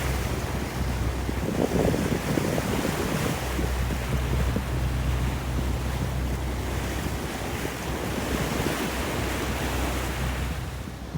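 Wind buffeting the microphone over the rush of sea water while under sail, an even hiss with a low steady hum underneath.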